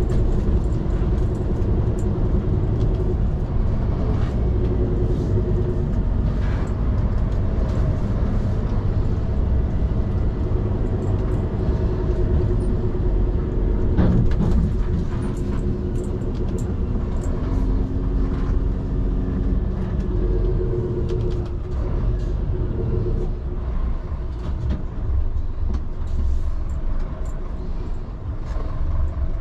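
Scania P360 XT skip truck's five-cylinder diesel running under way, a steady rumble whose engine tones rise and fall in pitch. A short knock comes about halfway through.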